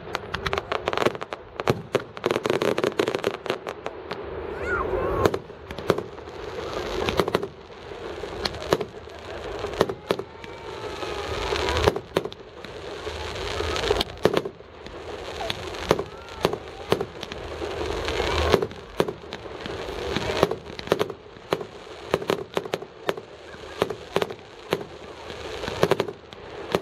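Fireworks display: a dense run of sharp bangs from bursting fireworks, with crackling that swells up and dies back every few seconds, and voices in the crowd.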